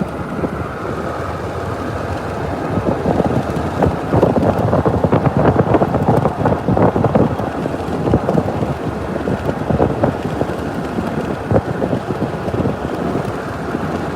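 Steady road and wind noise inside a moving vehicle, with a dense spatter of rain on the body, heavier from about three to eight seconds in.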